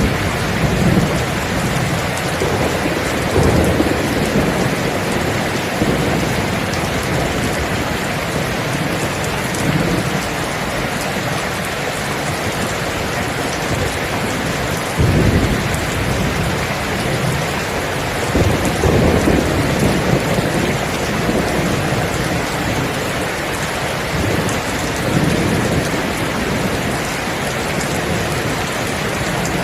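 Steady heavy rain falling in a thunderstorm, with rumbles of thunder swelling up several times, the strongest about fifteen and nineteen seconds in.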